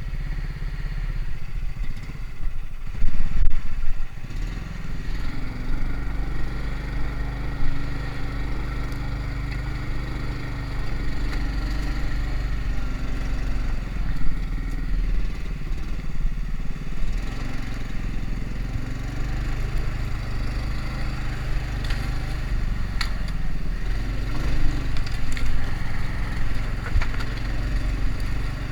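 Engine of a homemade karakat all-terrain vehicle running under way, its pitch rising and falling with the throttle. A few loud knocks sound about three to four seconds in.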